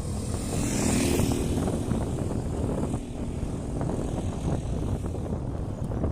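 Wind rumbling on the microphone of a camera riding on a moving road bike. A motor engine is heard briefly about a second in.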